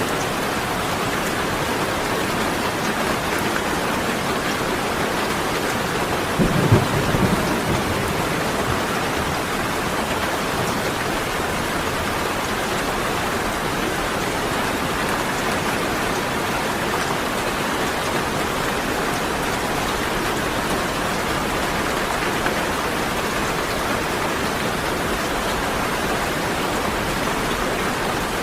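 Steady rain, with one short low clap of thunder about seven seconds in.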